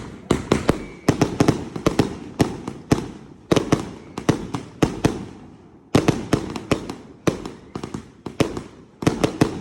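Fireworks going off: many sharp bangs in irregular clusters, each trailing off in echo.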